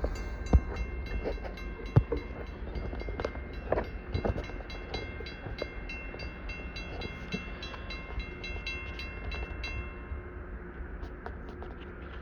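Coal train passing: a low rumble with scattered knocks and clanks from the wheels and cars, and a high ringing bell that stops abruptly about ten seconds in.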